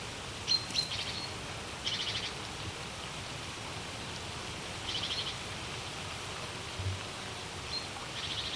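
Fenland wetland ambience: a steady hiss under a small bird's short, rapid chattering calls, repeated four times.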